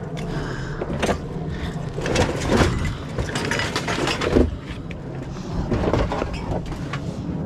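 Scattered knocks and clatter of scrap junk being dumped and handled, a few sharp hits spread across the stretch, over a steady low hum.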